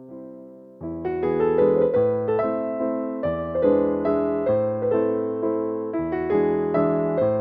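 Background piano music: a soft fading note, then from about a second in a livelier run of notes and chords.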